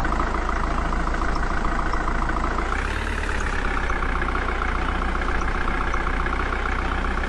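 Tractor engine idling steadily, with a slight rise in pitch about three seconds in. It cuts in and out abruptly.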